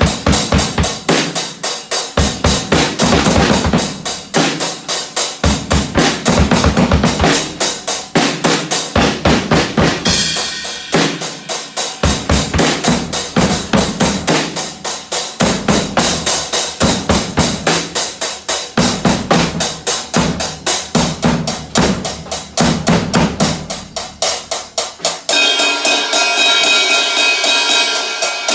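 A drum kit playing a fast, steady beat. About 25 seconds in, the hits give way to a sustained, ringing sound with many held tones.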